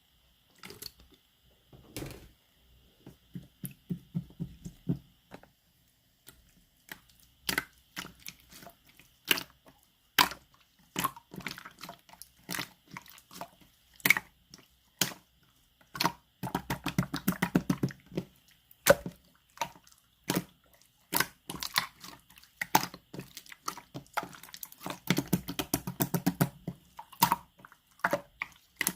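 Clear slime being squeezed, pressed and stretched by hand: irregular wet clicks and pops of trapped air, with two stretches of rapid crackling, one a little past halfway and one near the end.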